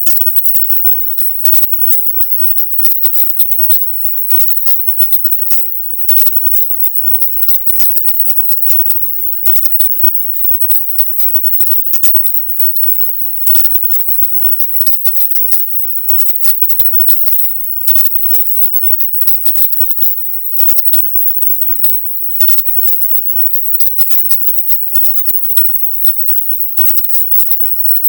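Silent subliminal audio: a dense, rapid crackling chatter of noise with a strong, very high hiss near the top of hearing, steady in level.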